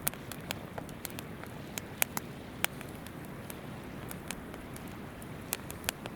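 Wood campfire crackling, with irregular sharp pops, the loudest about two seconds in, over the steady rush of a shallow river.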